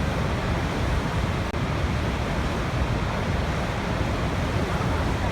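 Waterfall: the steady rush of falling water, even and unbroken, heaviest in the low end.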